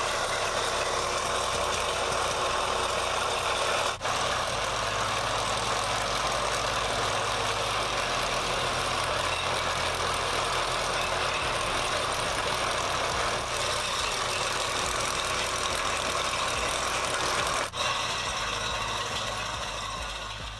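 Heavy diesel machinery running steadily under load, a loud, dense mechanical noise over a low rumble, broken by two brief drop-outs, about 4 and 18 seconds in.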